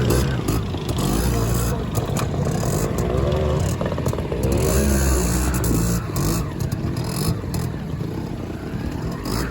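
Classic trials motorcycle engine revving up and down, its pitch rising and falling with the throttle, with a few sharp knocks.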